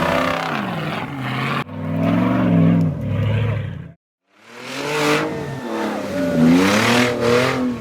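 Off-road 4x4 engines revving up and falling back again and again under load. The sound is split by abrupt cuts, with a brief dead gap about four seconds in.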